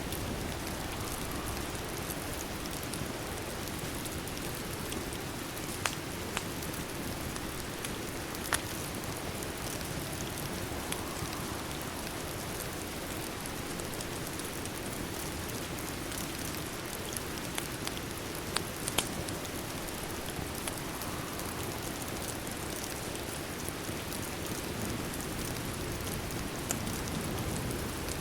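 Steady rain, an even hiss, with a few sharp crackles of a wood fire scattered through it.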